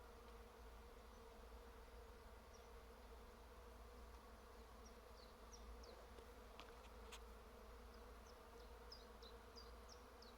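Swarm of honeybees buzzing in trees: a faint, steady hum. Short high chirps come in now and then over the second half.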